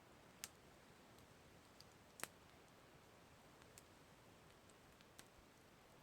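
Campfire crackling faintly: a few scattered sharp pops, the loudest about two seconds in, over a soft steady hiss.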